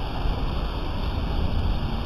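Steady rain, a continuous hiss with a heavy low rumble underneath.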